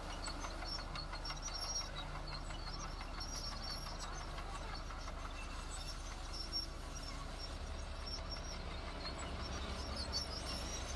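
A heavy construction machine's diesel engine running steadily, a low pulsing drone that grows stronger in the last few seconds.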